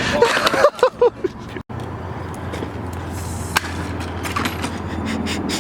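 Electric rental scooter rolling on pavement: small hard wheels rumbling steadily under a low hum, with one sharp knock about three and a half seconds in. A person's short vocal cries come in the first second.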